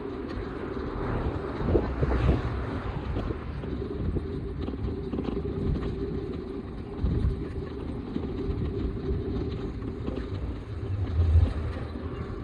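Wind buffeting the microphone over a steady road rumble while riding, with a few louder low thumps from bumps.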